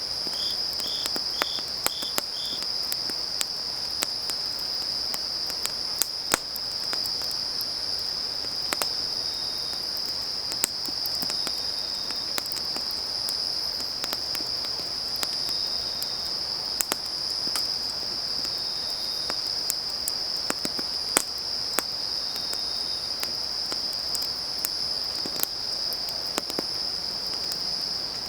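Autumn field crickets trilling in a steady, unbroken high chorus, with scattered sharp pops and crackles from a burning wood fire. A brief run of five short chirps comes near the start.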